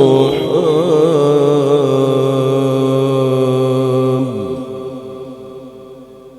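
A male Quran reciter's voice in melodic tajwid style, drawing out the word "al-arham" on a long, ornamented, held note. The note ends about four seconds in, and an echo then repeats it several times, fading away.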